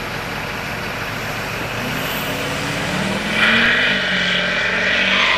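Drag-racing vehicle engines accelerating hard, their pitch rising from about two seconds in, with a louder burst of higher-pitched noise joining about three and a half seconds in.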